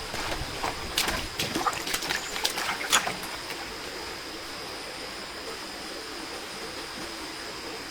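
Water trickling and splashing: a few sharp splashes in the first three seconds, then a steady wash of running water under a thin, steady high-pitched tone.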